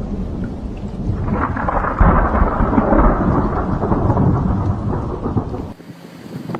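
Thunder rumbling loudly over heavy rain, swelling about two seconds in and cutting off abruptly near the end.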